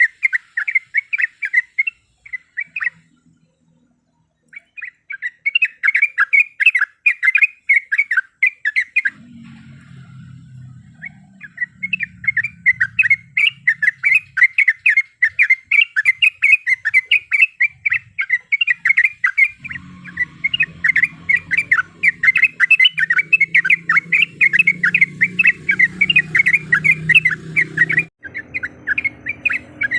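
Yellow-vented bulbul (trucuk) calling in long, fast rolling runs of chattering notes, broken by two short pauses. A low hum sits underneath in places.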